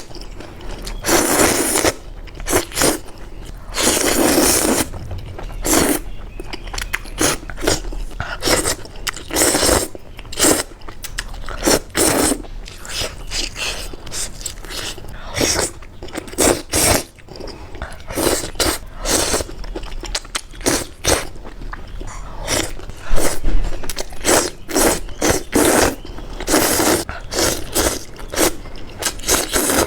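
Close-miked mukbang eating: a person biting and chewing crunchy food in a run of short, irregular crunches, with the loudest about two-thirds of the way through.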